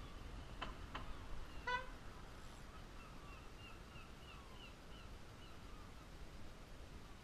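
Faint bird calls: a short honking call just under two seconds in, then a run of about eight quick repeated calls.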